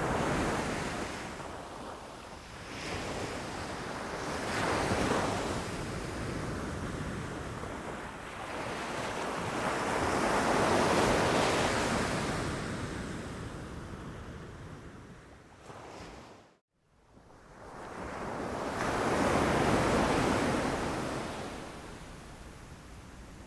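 Ocean waves breaking against rocks, the surf swelling and ebbing in slow surges, four of them. About two-thirds of the way through, the sound cuts out for an instant before the next wave builds.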